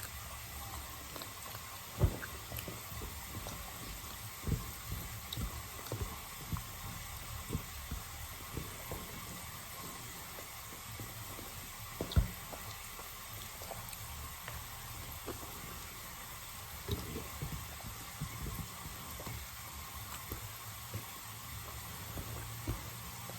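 Steady hiss like running water, with irregular soft low thumps throughout and two louder knocks, about two seconds in and about twelve seconds in.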